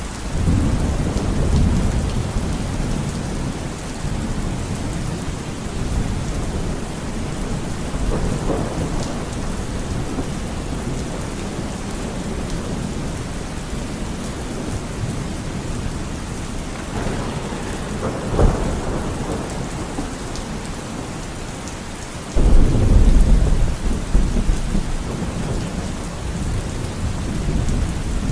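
Steady rain with rolling thunder. A low rumble sets in at the start, a sharp crack comes about two-thirds of the way through, and a loud low clap follows a few seconds before the end.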